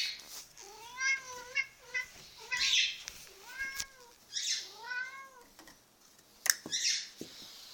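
A domestic cat giving a string of about six short, chirpy, bark-like meows, each one rising and falling in pitch. Breathy hissing huffs come between the calls and a last one near the end. The owner calls this the cat's bark, which he usually makes when it is time to be fed.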